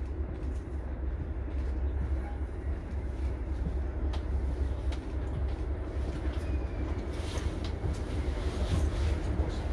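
Diesel locomotive running with a steady low rumble, with a few brief clicks over it.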